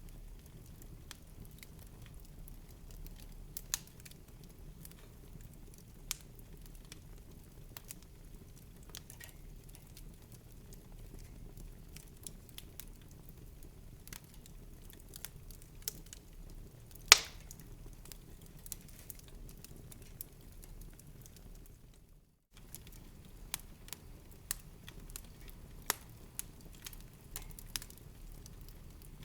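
Wood fire in a fireplace crackling, with scattered sharp pops over a low steady rumble and one much louder pop a little past halfway. The sound cuts out for a split second about three-quarters of the way through.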